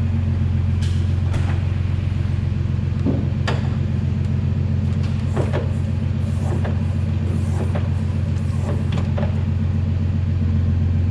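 A large vehicle engine idling steadily with a low, even rumble, with a few faint clicks and knocks over it.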